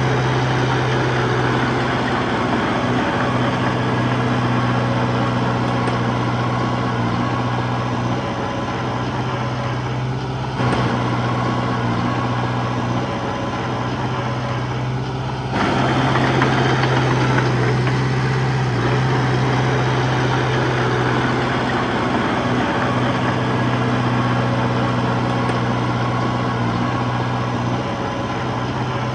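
Heavy diesel engine of earth-moving machinery running steadily, with a strong low hum. It changes abruptly about a third of the way in and again about halfway through.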